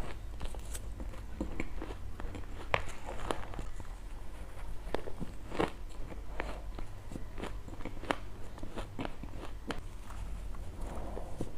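Ice being bitten and chewed close up: a run of sharp, irregular crunches, a few a second, over a steady low hum.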